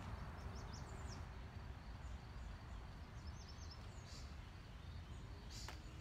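Low, steady outdoor background rumble with a few short, high bird chirps scattered through, the sharpest one near the end.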